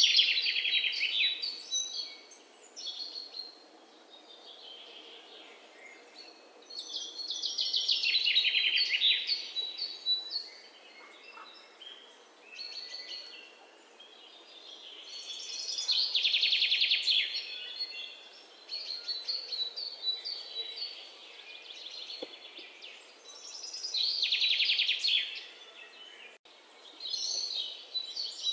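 A songbird singing a fast trilled song about two seconds long that falls in pitch. The song repeats roughly every eight seconds, with softer chirps from other birds in between.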